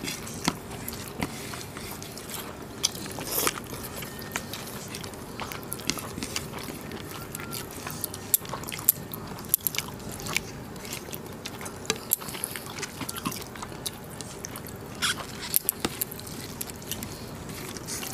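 Close-up eating sounds of people eating rice and mutton curry by hand: irregular wet chewing and mouth clicks, with no talking.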